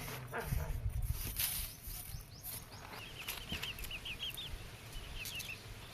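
Chickens clucking, with a run of quick, short, high chirps in the second half.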